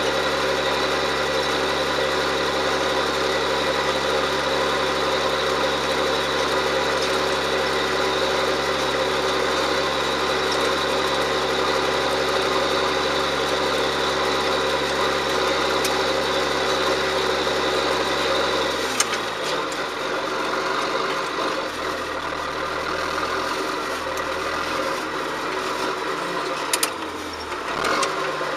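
John Deere 7710 tractor's six-cylinder diesel engine running steadily while pulling a plough. About two-thirds of the way through there is a click and the engine note drops and turns uneven, with a few more clicks near the end.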